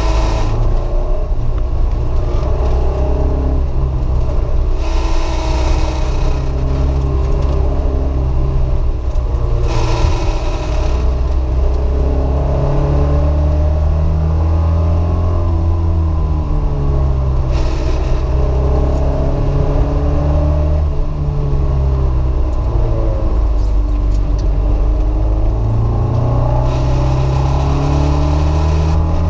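Alfa Romeo Alfetta's four-cylinder engine heard from inside the cabin, driven hard, its revs rising and falling again and again through the corners. A few times a hissing blower-fan noise comes on for a second or so, which happens each time the car turns left.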